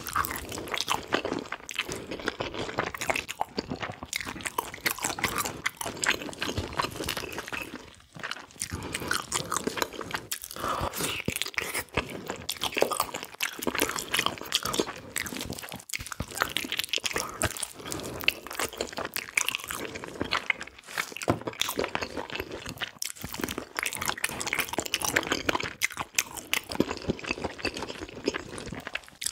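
Close-miked eating of spicy braised pig's feet (bul-jokbal): continuous chewing and biting with crunchy, crackling mouth sounds, broken by a few short pauses.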